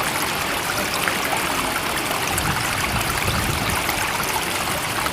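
Steady rushing of flowing water, an even wash of noise with no rise and fall of breaking waves.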